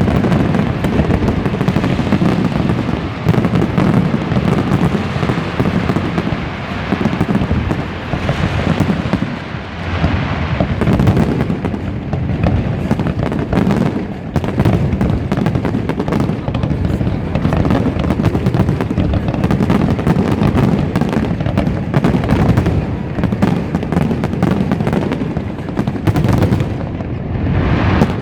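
Large fireworks display: a dense, continuous barrage of bangs and crackling shells going off in quick succession, with brief lulls now and then.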